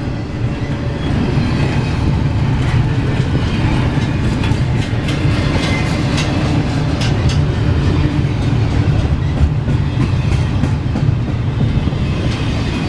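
Train rolling past: a steady loud rumble of wheels on the rails, with a run of sharp clicks from the wheels through the middle.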